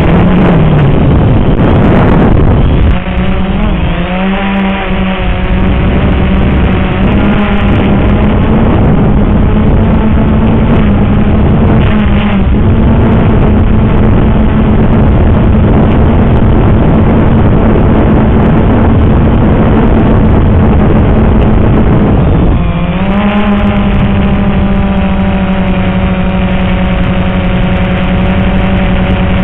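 Walkera X380 quadcopter's motors and propellers whining at a steady pitch, with a pitch change about three seconds in and again a little after twenty-two seconds in, over heavy wind noise on the microphone.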